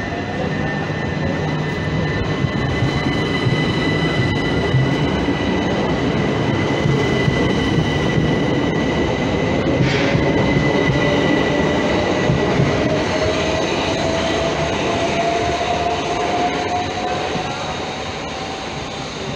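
Electric multiple-unit passenger train pulling out of the platform. Its carriages rumble past under a steady high electric whine, while a lower traction-motor whine rises slowly in pitch as the train picks up speed.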